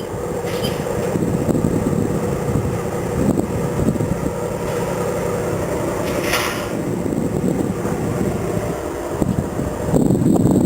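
Ferromex freight train running by: a steady, loud rumble of engine and rolling stock, with a short burst of higher-pitched noise about six seconds in.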